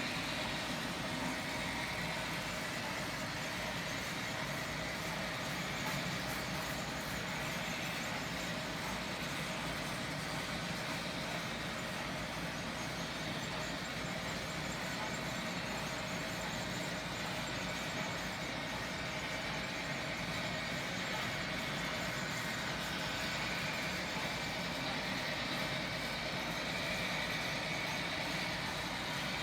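A train running steadily: a continuous, unchanging mechanical whir with a faint steady hum, and no single knocks or horn blasts.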